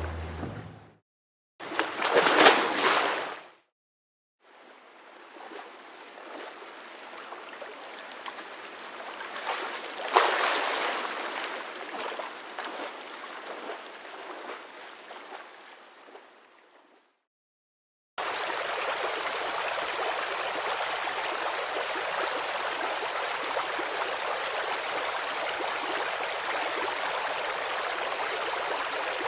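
A short burst of rushing noise between silences, then a swell of rushing noise that rises to a peak about ten seconds in and fades out. From about eighteen seconds in, a babbling creek runs steadily.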